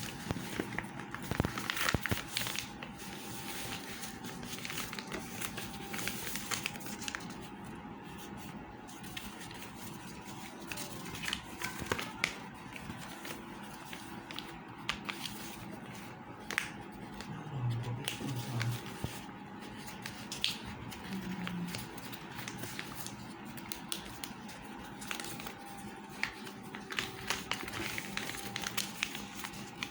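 Hand-crafting sounds: crinkling and rustling of material being handled, with scattered small taps and clicks, over a steady faint hum.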